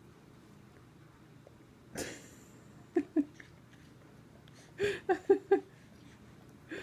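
Six-month-old baby making short vocal noises: a breathy burst about two seconds in, then two short grunts, then a quick run of four short 'ah' sounds near five seconds.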